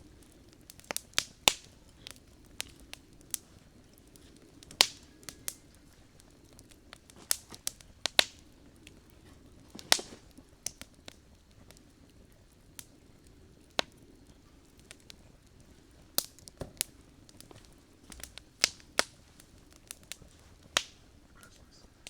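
Campfire of burning wood crackling, with sharp pops and snaps at irregular intervals over a faint low hiss.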